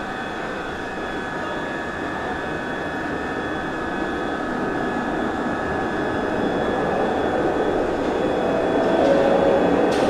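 Glasgow Subway train running through the tunnel: a steady rumble with a high motor whine that slowly grows louder, and a couple of sharp clicks near the end.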